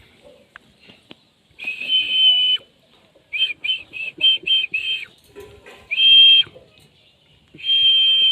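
A parrot giving loud, shrill whistle-like calls: one long call, then a quick run of about six short notes, then two more long calls.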